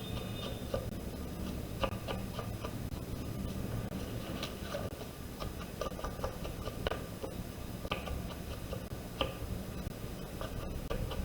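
Paper and card being handled and pressed down, with light, irregular taps and clicks over a steady low hum.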